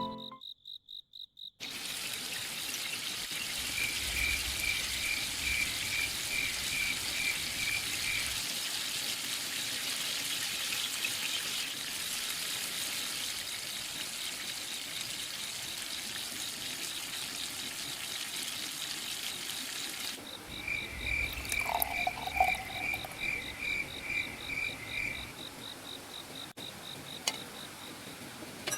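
Stream water rushing, with insects trilling steadily and high, and an animal's rapid pulsed call heard twice. About two-thirds of the way through, the rushing falls away and leaves mostly the insect trill.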